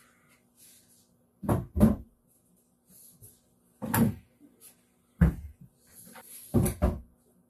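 A series of sharp wooden knocks and thumps from plywood pieces being handled and set down: two close together about a second and a half in, a single one near four seconds, another a second later, and a final close pair near the end.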